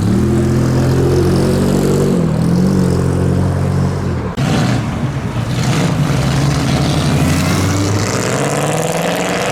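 A car engine running at a low, steady pitch for about four seconds, then a rougher engine note that rises in pitch near the end as the car accelerates away.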